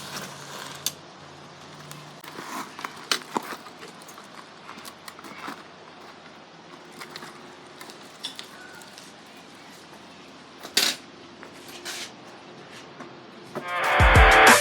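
Scattered light clinks and knocks of small hard objects, the sharpest about three seconds in and again near eleven seconds. Near the end, loud music cuts in suddenly.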